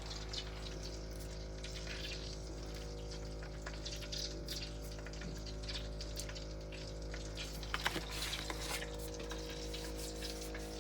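Steady hum of a small motor or fan, with a few faint clicks.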